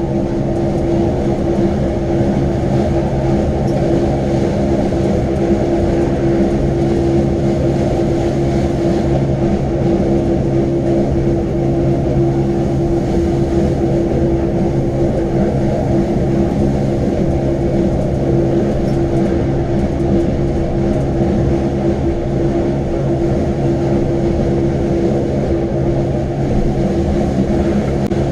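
Wengernalp rack railway train running: a steady mechanical drone with a constant pitched hum that does not change through the whole stretch.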